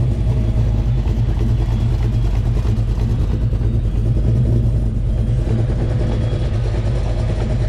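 Car engine idling with a loud, steady, deep rumble.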